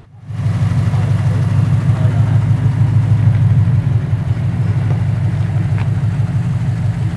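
Lexus IS F's 5.0-litre V8 idling with a steady, deep rumble.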